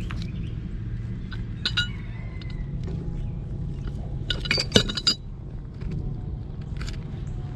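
Metal parts knocking together with short ringing clinks: one a little under two seconds in, then a louder cluster of clinks around four and a half to five seconds, over a steady low hum.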